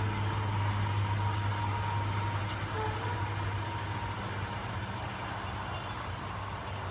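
A machine running steadily with a constant low hum over a light hiss.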